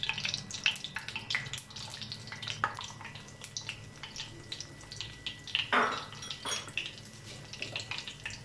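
Egg-coated potato cutlets sizzling and crackling in hot oil in a frying pan, as more cutlets are laid into the oil, with a louder burst of sizzling about six seconds in. A low steady hum runs underneath.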